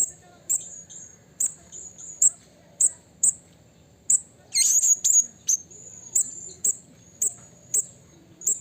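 Blue-crowned hanging parrot (serindit) calling: a run of short, sharp, high-pitched notes about two a second, with one longer, more complex call about halfway through.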